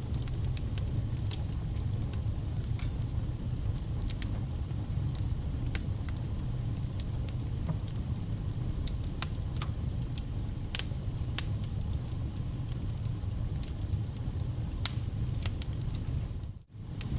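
Wood fire burning: a steady low rumble of flames with irregular sharp crackles and pops from the burning firewood. The sound cuts out for a split second near the end.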